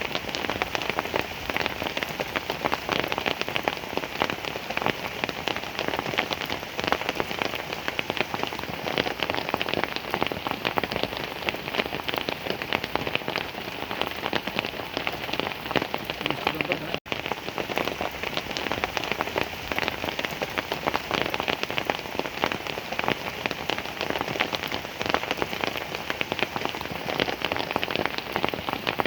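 Heavy rain falling steadily, a dense patter of drops hitting a surface, with a momentary break about seventeen seconds in.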